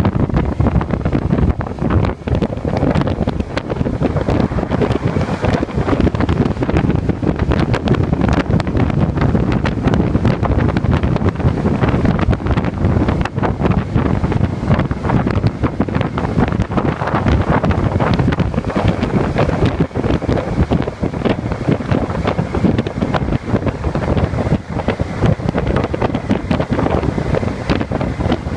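Wind buffeting the microphone of a motorcycle-mounted camera at riding speed: a loud, steady, choppy rush that covers the engine and road noise underneath.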